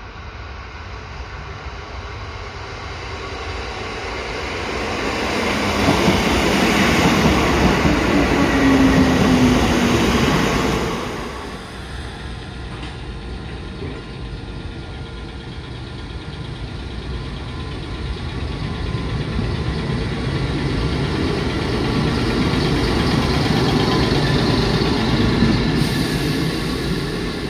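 Kotoden 1200-series electric train running on the rails, growing louder as it approaches and passes close by, with a slightly falling motor tone. The sound drops suddenly, then builds again as a train comes into a station.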